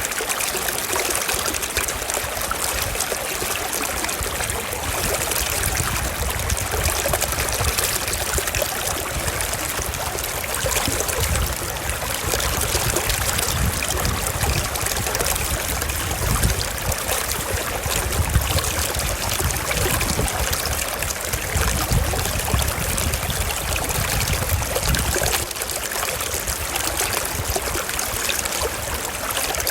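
Small mountain stream flowing over rocks, a steady trickling and rushing of water.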